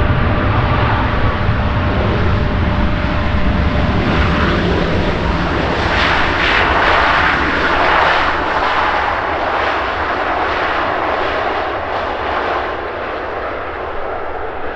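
Air Canada Boeing 737-8 MAX's CFM LEAP-1B jet engines running loudly as the airliner arrives, a dense rushing noise with a strong low rumble and a faint whine. About six seconds in it grows louder and rougher for a few seconds, then eases off.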